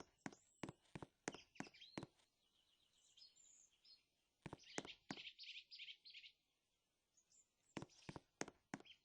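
Faint, quick taps, several a second, with birds chirping for a few seconds around the middle.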